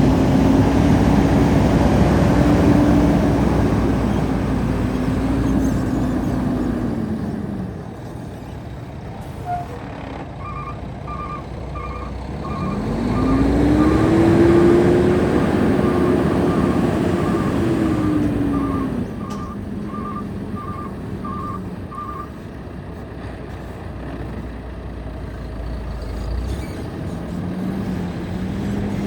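Diesel engine of a 2011 International 7000 Series truck revving up and easing back down twice, then settling to a lower idle. An electronic beeping alarm sounds in regular repeated beeps through the middle, about ten seconds long.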